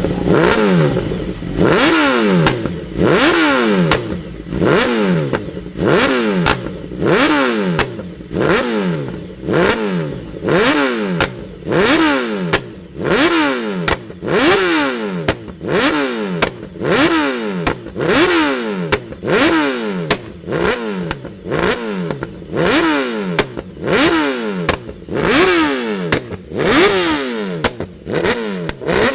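A long line of sport motorcycles passing one after another, about one a second, each engine note dropping in pitch as the bike goes by.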